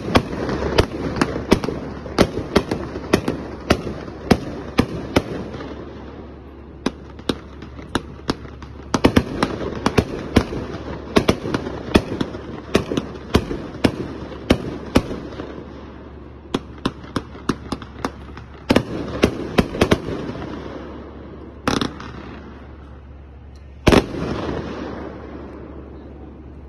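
A 36-shot firework cake firing: a rapid string of shots and aerial bursts, about two a second, for most of the time, thinning to two last bangs near the end.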